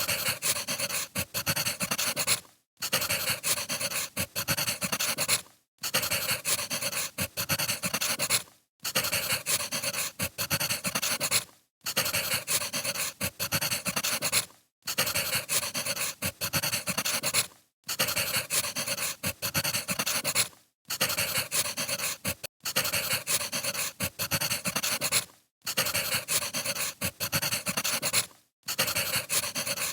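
Firewood burning with a dense, steady crackle full of small pops. It cuts out briefly about every three seconds, as a looped recording does.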